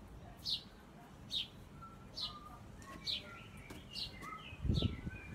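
A small bird calling with a short, high, falling chirp repeated about once a second, with other birds' fainter short notes behind it. Near the end comes a louder low rustle or bump.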